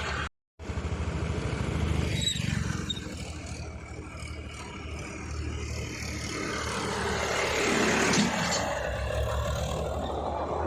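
Powertrac tractor's diesel engine running with a steady low rumble and a hiss over it. The sound drops out for a moment just after the start, then carries on, rising slightly later on.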